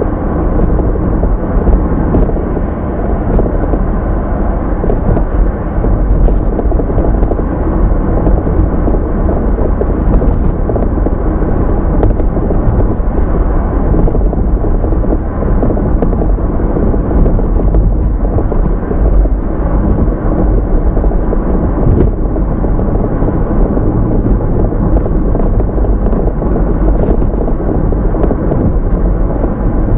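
Car driving along, heard through a dashcam: a steady, loud low rumble of road and engine noise with a few faint clicks.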